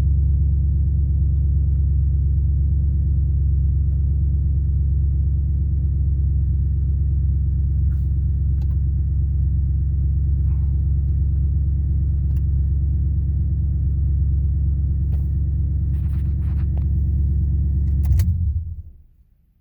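2008 Ford Crown Victoria Police Interceptor's 4.6-litre V8 idling steadily, then switched off near the end: a click, and the engine sound dies away within about a second.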